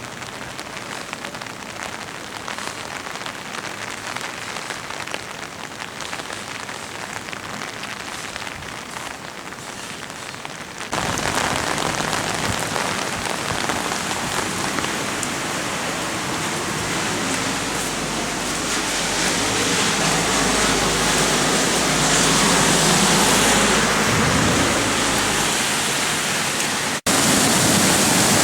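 Rain and the rushing water of a creek in flash flood, a steady noise with no break. It jumps louder at a cut about eleven seconds in and again at another cut near the end.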